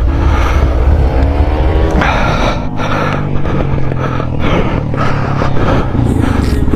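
Road traffic: a vehicle engine rising in pitch over the first couple of seconds, over a steady low road rumble, with scattered light knocks.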